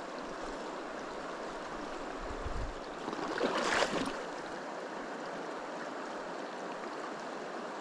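Shallow creek water flowing steadily, with a brief louder burst of noise a little over three seconds in.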